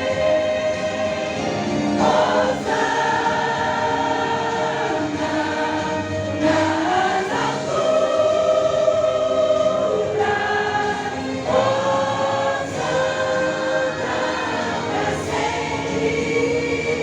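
Choir singing slow, sustained chords that shift every few seconds, in the manner of a church hymn.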